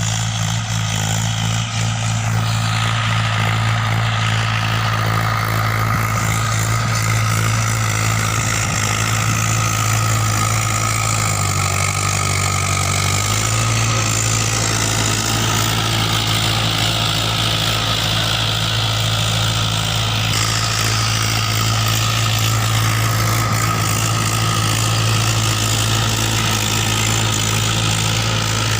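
Mahindra 575 DI tractor's four-cylinder diesel engine running at a steady speed, with a brief dip in engine note about twelve seconds in.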